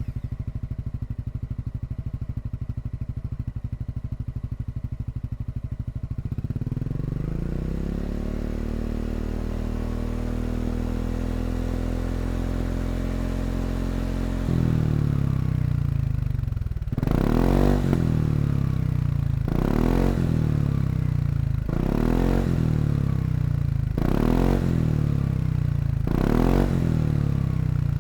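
Honda ADV350 scooter's single-cylinder engine through a Yoshimura GP-Magnum115 full-system exhaust, idling, then climbing slowly to a held higher speed and dropping back. From about two-thirds of the way in it is blipped five times, quick revs about two seconds apart.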